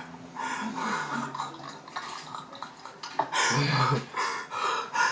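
Muffled, overlapping voices from a livestream playing in the background, with a louder, broader burst of sound about three and a half seconds in.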